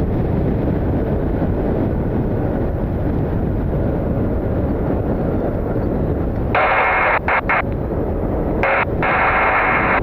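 Steady low rumble of strong gusty wind buffeting the microphone. About six and a half seconds in, an air traffic control radio feed cuts in twice with short, thin-sounding transmissions.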